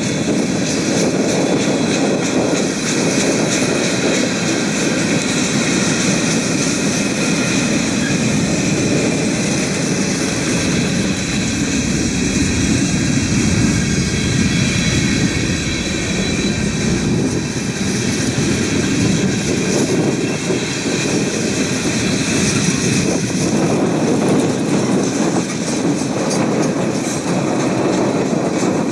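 Freight cars of a mixed freight train rolling past, their steel wheels clattering steadily over the rail joints.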